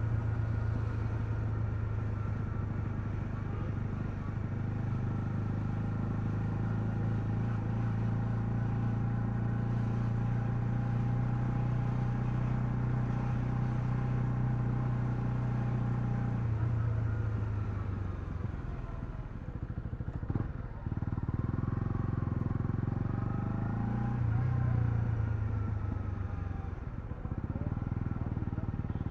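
Honda CL250's single-cylinder engine running steadily under way. About two-thirds of the way through the revs fall away, there is a single sharp click, and then the engine revs up and back down before settling into steady running again.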